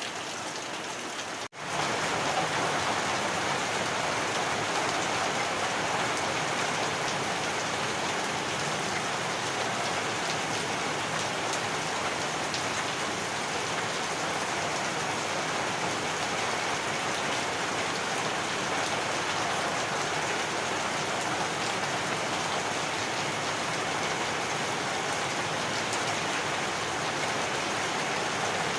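Heavy rain falling steadily, a dense, even hiss of drops on surfaces. About a second and a half in, the sound cuts out for a moment and comes back slightly louder.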